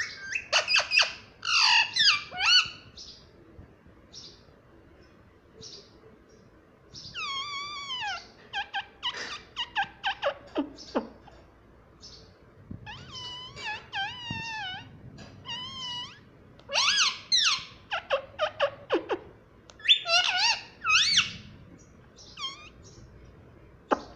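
Pet parrot chattering in bursts of squawks, chirps and warbling whistles, with quieter gaps between clusters and a few long downward-gliding calls.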